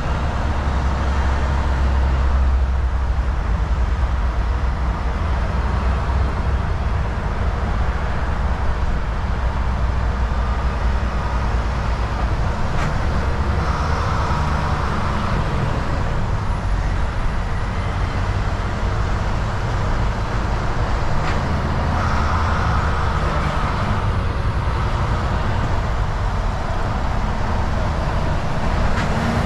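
Volvo VNL 760 semi truck cruising on the highway: a steady low engine rumble under constant tyre and road noise. Two short swells of higher hiss come through about halfway along.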